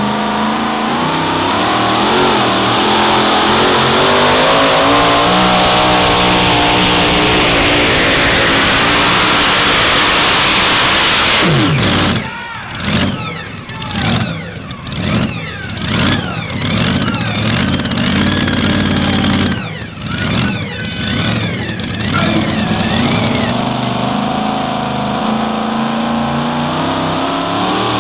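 Super modified two-wheel-drive pulling truck's engine running loud and steady at high revs. Partway through it switches to a series of about ten sharp throttle blips, revving up and dropping off in quick succession, then settles back into a steady run.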